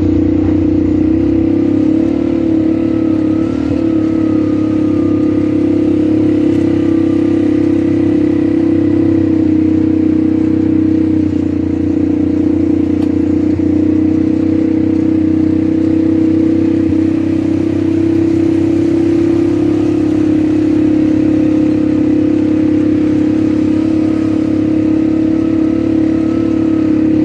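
ATV engine running at a steady speed.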